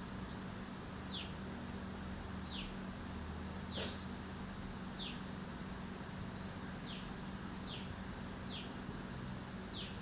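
Small birds giving short, high chirps, each a quick downward note, about one a second, with one sharper, louder note about four seconds in. A steady low hum runs underneath.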